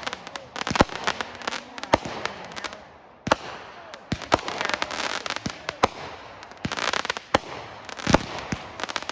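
Fireworks going off: a rapid, irregular string of sharp bangs with crackling in between, easing briefly about three seconds in and then coming thick again.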